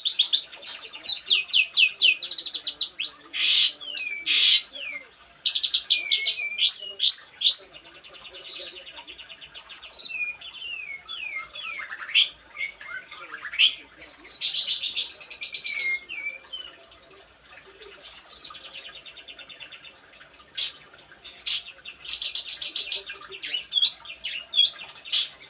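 Long-tailed shrike (pentet) singing busily, in the full 'gacor' song that bird keepers want: varied phrases of rapid trills, fast repeated chattering notes and quick rising and falling whistles, with short pauses between them.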